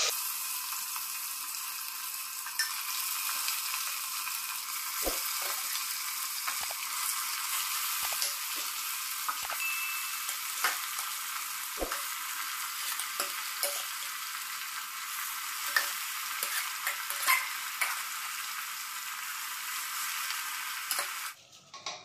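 Marinated mutton and sliced onions sizzling in hot mustard oil in a pressure cooker while being stirred, with a steady hiss. A metal ladle taps and scrapes against the pot now and then. The sizzling cuts off shortly before the end.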